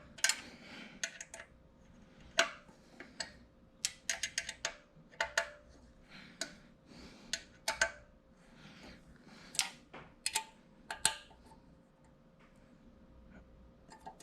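Irregular sharp clicks and clinks of metal stand parts and screws being handled and hand-tightened during assembly.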